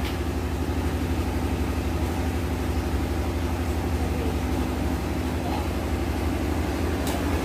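A motor running steadily, with a low hum and a fast, even throb.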